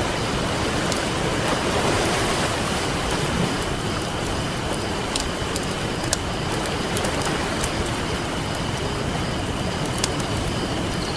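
Ocean waves washing on a beach as a steady rushing hiss, swelling about two seconds in. Sharp crackles and pops from a burning campfire break through a few times in the second half.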